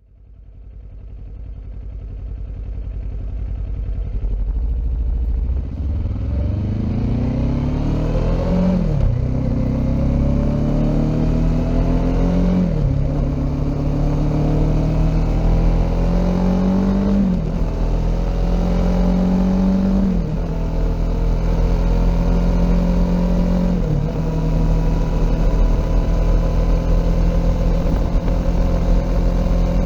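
Kawasaki Ninja 400's parallel-twin engine through an Akrapovic aftermarket exhaust, fading in and then accelerating through the gears. The engine note climbs and drops sharply at each of five upshifts, then holds steady at cruising speed for the last few seconds.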